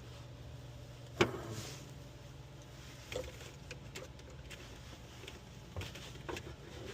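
Hands working a plastic wiring-connector clip: one sharp click about a second in, then a few lighter clicks and taps, over a steady low hum.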